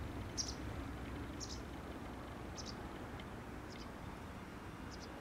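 A bird giving short, high chirps about once a second, evenly repeated, over a steady low rumble.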